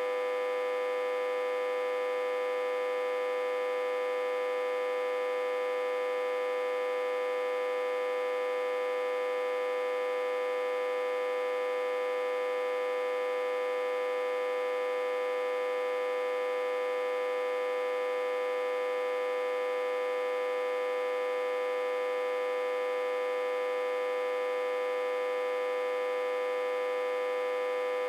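Autotransformer humming steadily, driven at about 60–80 V while connected in reverse to a step-down transformer. The hum is unchanging, a strong mid-pitched tone with many higher overtones.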